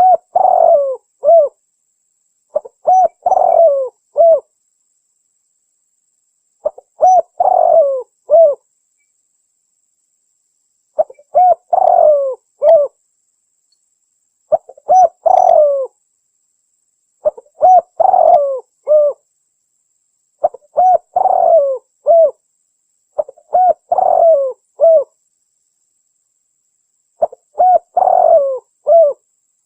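Spotted dove cooing, from a hunting lure recording presented as a female calling to a male: nine phrases of several coos each, roughly one every three seconds, with silence between them.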